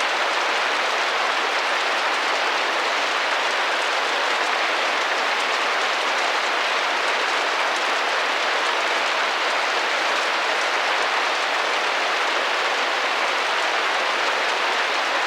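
Steady rain drumming against a window, a dense even patter of drops on the glass.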